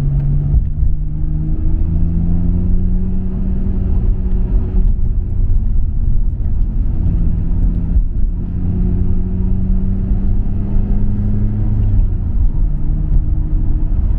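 Nissan Skyline R34 GT-R's twin-turbo RB26 straight-six through a MINES aftermarket exhaust, under way at part throttle. The engine note climbs slowly, falls away about five seconds in, climbs again and drops back near the end, over a steady low road rumble.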